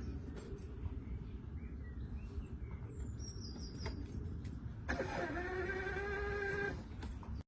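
Vehicle driving, a steady low rumble of engine and road noise, with a held pitched tone for under two seconds about five seconds in.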